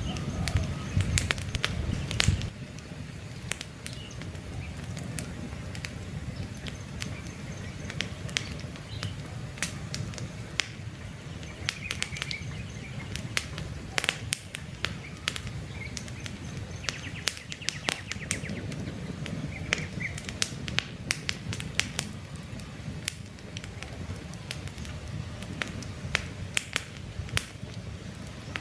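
Wood campfire crackling with frequent sharp pops over a low rush of burning flames, the rush heavier for the first couple of seconds. Faint bird chirps come in now and then.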